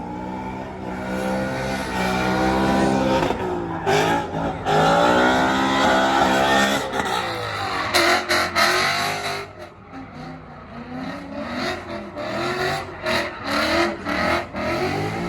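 Drift cars running hard with engines revving up and down and tyres squealing through the slides. In the second half the revs go choppy, cutting in and out several times in quick succession.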